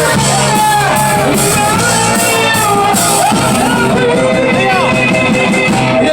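Live rock band playing with a singer, drums and guitar, heard loud and echoing in a large hall, with some crowd shouting.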